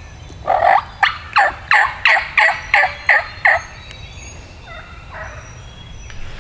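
A turkey hen yelping: a fast series of about nine loud, falling yelps, about three a second, followed a little later by a few fainter notes.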